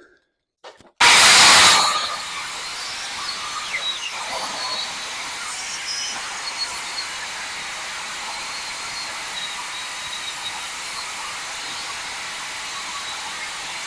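Power saw cutting through steel angle iron: a sudden loud burst about a second in as the blade starts and bites, then a steady hissing cut with faint high squeals.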